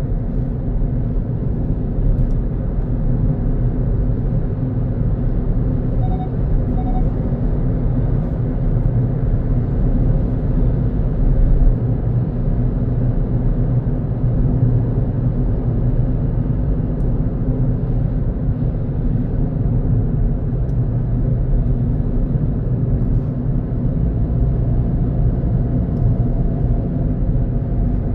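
Steady low rumble of a car driving along a road, engine and tyre noise without a break. Two short faint beeps sound about six seconds in.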